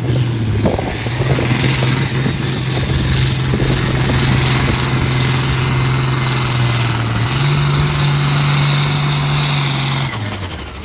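Engine of a competition pulling vehicle running hard under load during a pull. It holds a steady, loud note, climbs a step in pitch about seven seconds in, then drops back and dies away near the end as the pass ends.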